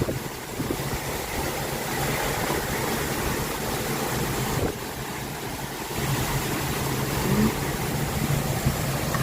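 A steady low engine-like hum over a rushing noise, easing briefly in the middle.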